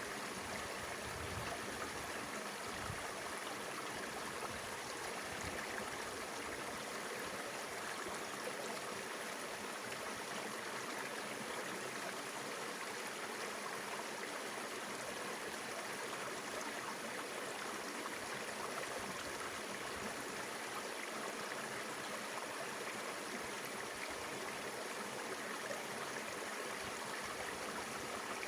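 Mountain river flowing steadily: an even, unbroken rush of water.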